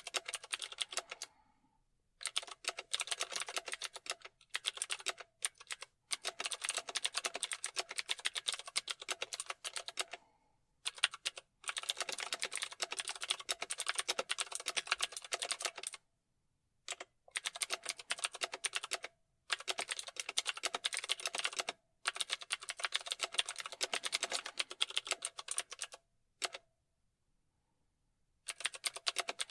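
Fast typing on a computer keyboard: dense runs of rapid key clicks in bursts of a few seconds, broken by short pauses, with a longer pause near the end.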